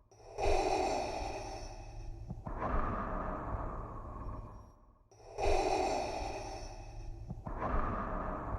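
Darth Vader's mechanical respirator breathing, a sound made by breathing through a scuba regulator: two full breaths, each a bright hiss of about two seconds followed by a duller, lower breath, about five seconds per cycle, over a steady low hum.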